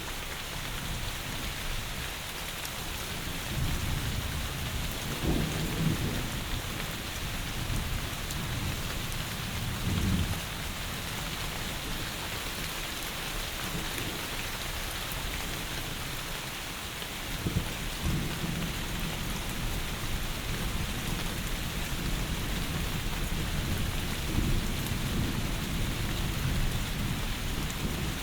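Heavy rain falling steadily, with low rumbles of thunder swelling up four times: about four seconds in, near ten seconds, around seventeen seconds, and again near the end.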